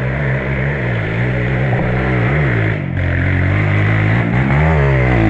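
Trail motorcycle engine running and being revved unevenly, its pitch wavering up and down, with a stronger rev near the end that falls off sharply.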